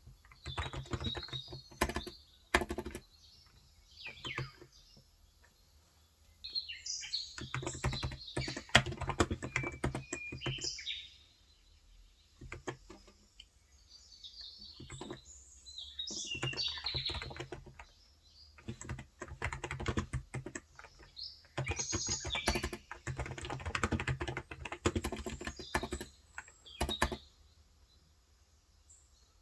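Typing on a Cox Endeavour electro-capacitive (contactless) tenkeyless keyboard with 35 g switches, in bursts of rapid keystrokes lasting a few seconds each, separated by short pauses. Birds chirp intermittently in the background.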